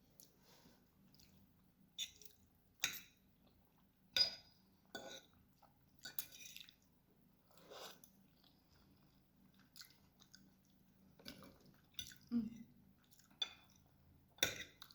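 A person chewing food close to the microphone: short, wet mouth sounds at irregular intervals, with a few sharper bites.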